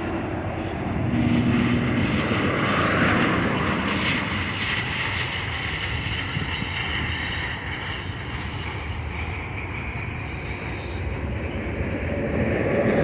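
Freight train of autorack cars rolling past with its locomotive coasting: a steady rumble of steel wheels on rail, with little engine sound.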